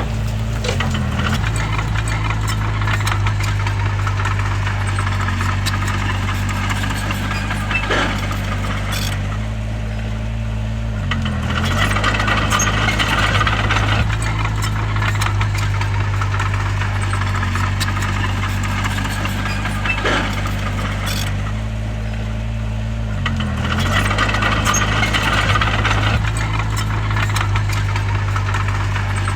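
A bulldozer's diesel engine runs steadily under load, its pitch dipping and recovering roughly every 11 seconds. Stretches of metallic clattering and rattling, from the tracks and pushed stone, rise over it twice.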